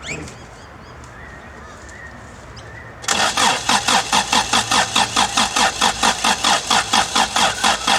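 Toyota 4Y four-cylinder petrol engine turned over by its starter motor, starting about three seconds in: steady rhythmic cranking at about four to five pulses a second, not yet firing. The engine has sat unused for a while, and the helper calls for more power.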